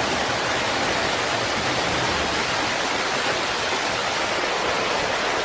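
Flash-flood water rushing, a steady, loud roar of churning floodwater.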